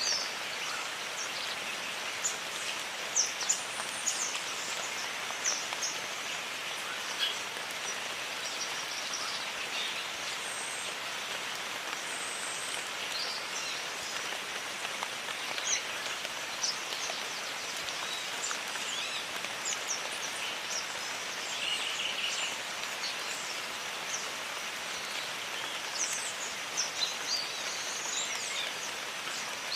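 Steady jungle rain, a constant even hiss, with many short high bird chirps and calls scattered over it.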